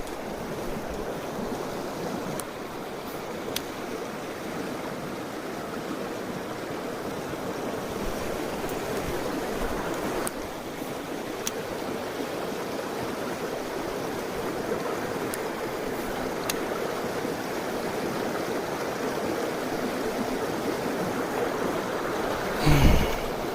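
Mountain stream water rushing steadily over rocks, with a few faint sharp ticks and a brief louder knock or rustle near the end.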